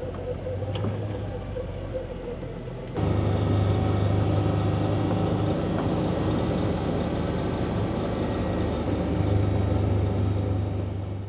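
Farm tractor engine running steadily, stepping up louder about three seconds in.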